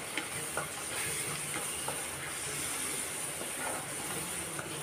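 Onion-tomato masala with chilli powder sizzling steadily in a non-stick wok, with a few light scrapes and taps of a wooden spatula as it is stirred.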